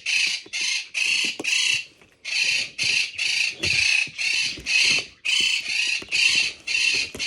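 A pet parrot squawking over and over: a rapid series of loud, harsh calls, about two a second, with a short pause about two seconds in. Faint knocks and rustles sound underneath.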